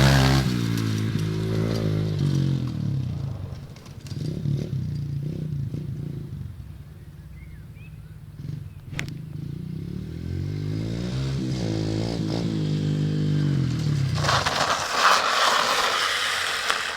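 Pit bike's small single-cylinder engine running close by at the start, its pitch dropping as it moves away and fades. It comes back a few seconds later, revving near the end.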